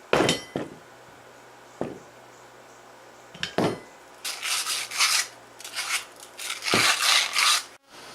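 Metal parts of a go-kart torque converter jackshaft being handled: a few sharp clinks, then several rough rubbing strokes starting about four seconds in.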